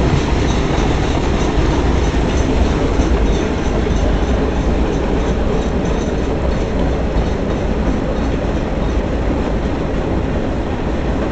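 Freight train cars rolling past close by: a steady, loud rumble of wheels on rail with a rhythmic clickety-clack.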